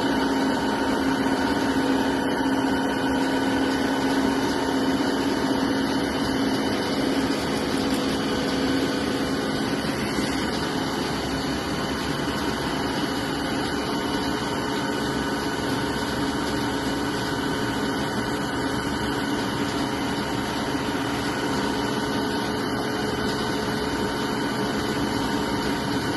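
Hegenscheidt deep hole drilling machine running through an automatic feed cycle with its hydraulics on: a steady mechanical hum with several held tones. It gets slightly quieter about ten seconds in.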